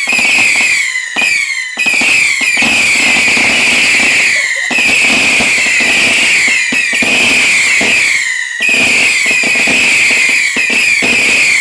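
Garden fireworks giving off loud, screeching whistles one after another, each falling in pitch, over a steady crackle.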